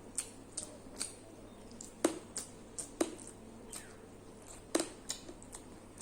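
A person eating rice and curry in close-up: irregular wet clicks and smacks from chewing mouthfuls, the strongest about two, three and almost five seconds in.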